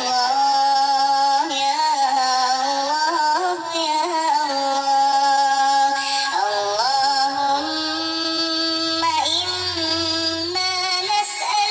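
A solo voice chanting a melismatic, sholawat-style melody: long held notes joined by ornamental slides and turns, with no clear words.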